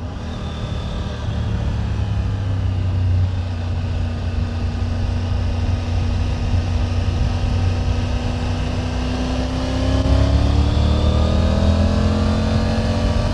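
2024 Triumph Tiger 900 GT Pro's inline-three engine running at a steady cruise, then revving up as the bike accelerates about ten seconds in.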